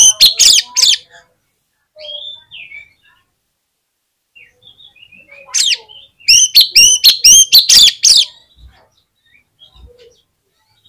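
Oriental magpie-robin (kacer) singing: a loud run of rapid, repeated whistled notes in the first second, softer scattered notes after it, then a second loud run from about six to eight seconds in.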